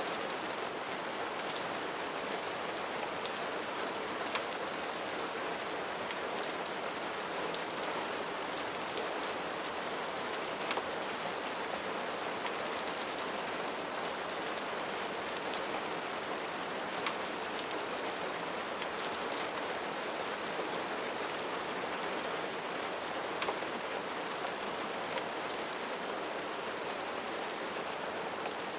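Steady rain falling on a surface, an even hiss with a few faint, sharp ticks scattered through it.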